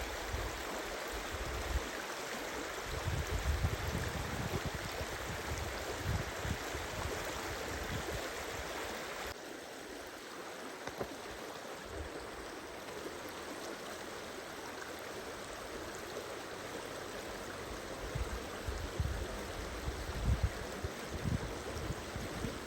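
Steady rushing of a flowing stream, with irregular low rumbles of wind on the microphone. About nine seconds in the hiss abruptly becomes quieter.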